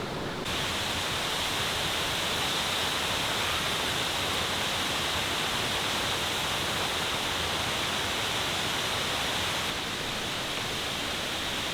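Steady rushing of a waterfall, an even hiss of falling water without a break.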